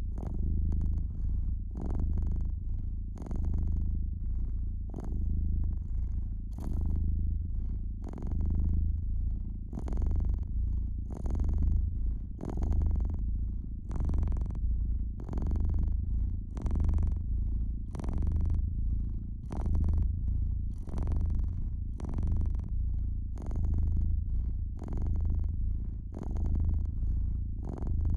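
Domestic cat purring steadily, a low rumble that swells and fades with each breath, with frequent short crackles of a wood fire over it.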